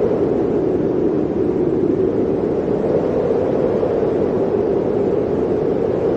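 Blizzard wind blowing as a steady, low rushing noise with no gusts or breaks.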